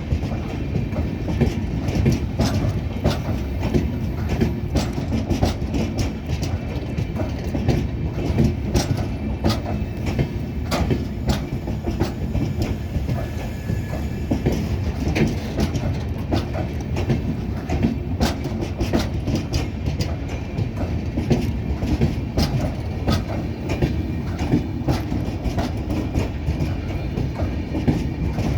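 Express train's LHB passenger coaches rolling along the track: a steady low rumble with a rapid, irregular clickety-clack of wheels over rail joints.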